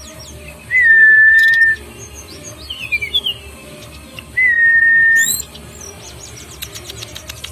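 Songbird whistling: two long level whistles of about a second each, with short falling chirps between them and a quick run of ticking clicks near the end.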